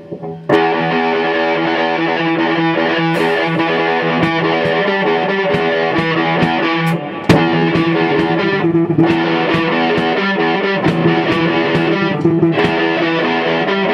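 Rock band playing at rehearsal, led by a distorted electric guitar holding chords, with regular sharp strikes over it. The band comes in about half a second in, after a brief gap.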